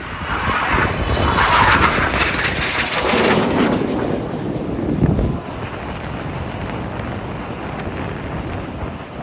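A fixed-wing aircraft flying past, loud, its sound falling in pitch as it goes by and dropping away sharply about five seconds in. Wind buffets the microphone after that.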